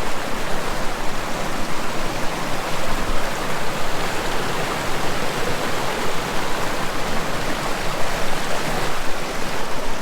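Swift mountain stream rushing down over rocks, a steady loud wash of water.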